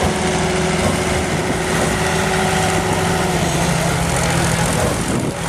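Chamberlain Super 70 tractor's diesel engine running loudly and steadily.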